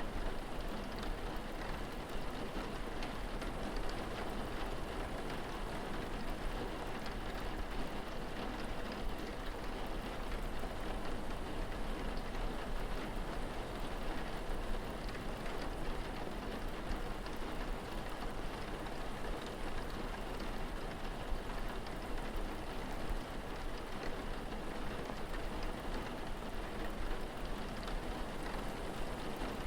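Steady rain falling, an even wash of noise with many small drop ticks on hard surfaces and no pauses.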